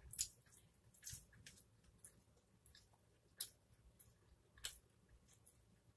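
A person biting into and chewing a slice of pizza close to the microphone: wet mouth sounds punctuated by several sharp clicks, the loudest about a quarter second in and again near five seconds in.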